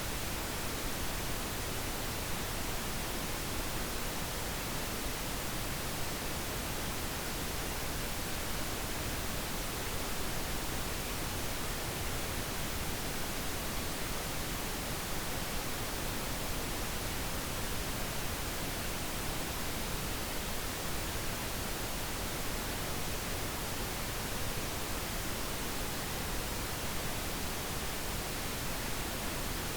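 Steady pink noise: an even, unbroken hiss across the whole range, with no changes or events.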